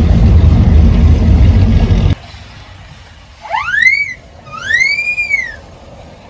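A car engine rumbling loudly, cut off abruptly about two seconds in. Then a two-note wolf whistle, each note rising and then falling.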